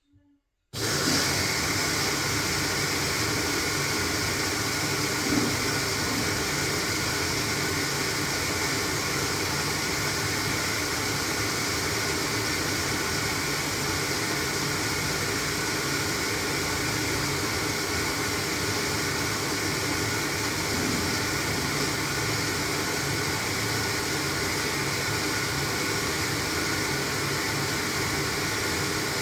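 LG washing machine starting abruptly about a second in, then running with a steady rushing noise with faint steady hums through it.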